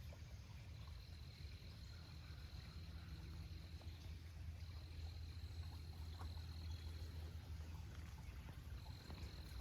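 Faint outdoor ambience: a high, steady trill from a calling animal sounds in stretches of about three seconds with short gaps, over a low steady rumble.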